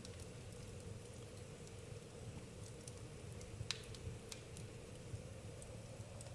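Campfire crackling faintly: a few scattered sharp pops, the loudest about halfway through, over a low steady rumble.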